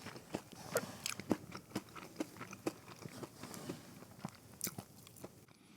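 Close-up chewing of fried mozzarella sticks: irregular crunches of the crisp fried coating mixed with wet mouth clicks, a couple every second.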